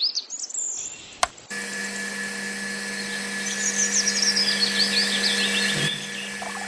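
Small birds chirping in quick, high rising chirps, over a steady low hum and hiss that starts about a second and a half in.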